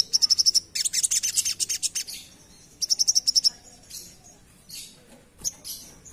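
Little spiderhunter singing: rapid trills of high, sharp repeated notes, about a dozen a second, in three bursts over the first three and a half seconds, then softer scattered calls.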